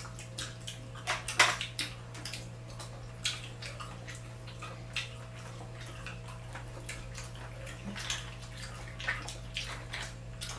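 Wet eating sounds of seafood being eaten by hand: irregular smacks, sucks and clicks of chewing and shells being handled, over a steady low hum.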